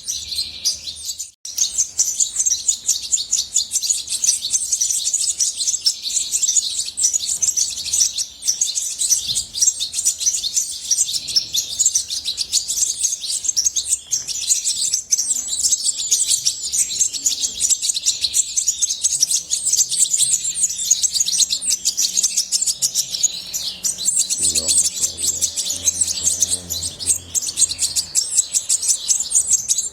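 European goldfinch singing: a continuous, rapid, tinkling twitter of high notes, broken only briefly about a second and a half in.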